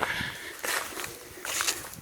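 Footsteps of a hiker walking on the railway track bed, steps about two-thirds of a second apart.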